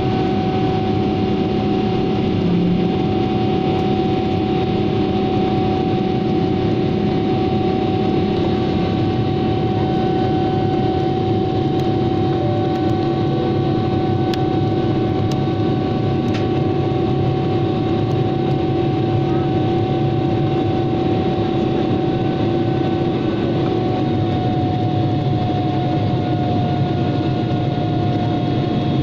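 Jet airliner cabin noise in flight: a steady drone of engines and rushing air with a few steady hum tones over it. One lower hum fades out a few seconds before the end.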